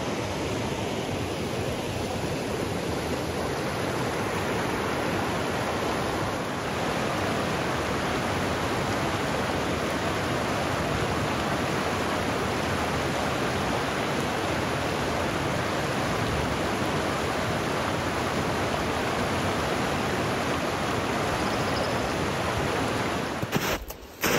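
Steady rushing of a river flowing, which cuts off abruptly about a second before the end, giving way to a few sharp knocks.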